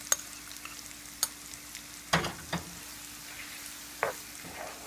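Raw chicken pieces sizzling in hot oil with scrambled egg in a frying pan, while a wooden spatula stirs them and knocks against the pan about five times, loudest a little past two seconds in.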